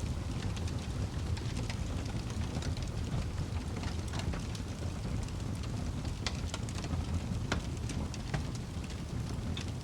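Wood fire burning in a fireplace: a steady low rumble with irregular sharp crackles and pops from the burning wood.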